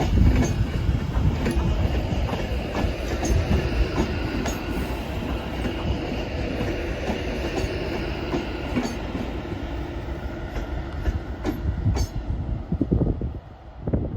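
A train running past, its wheels clattering over rail joints and points with scattered clicks over a steady rumble, which falls away sharply near the end.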